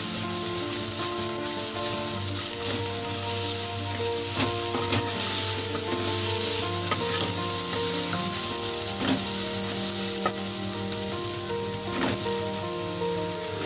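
Chopped onion, garlic, ginger, chillies and mint sizzling steadily in hot oil in a metal pot, stirred with a wooden spatula that scrapes and knocks against the pot now and then.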